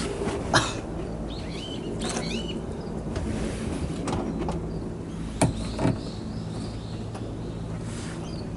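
Truck diesel engine idling steadily, with a few sharp clacks, one about half a second in and two close together past the middle, and birds chirping in the first couple of seconds.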